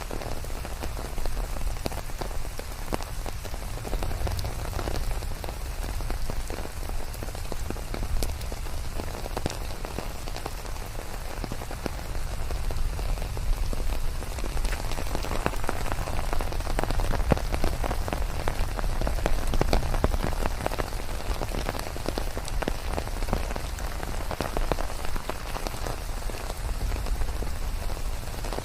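Steady rain pouring down, with many separate drops pattering and a low rumble underneath. It swells somewhat louder midway through, then eases back.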